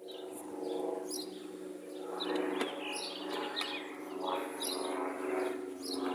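Small songbirds chirping in short, rapid calls over a steady low hum.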